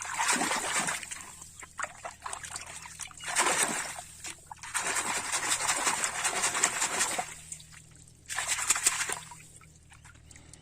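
Water pouring and splashing over a muddy plastic toy as it is rinsed clean, in several bursts of a second or two with short pauses between.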